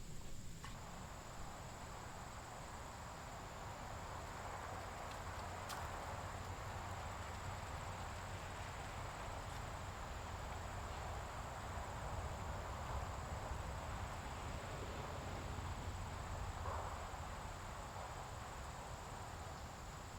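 Steady woodland ambience: a thin, continuous high insect trill over a soft, even rushing hiss.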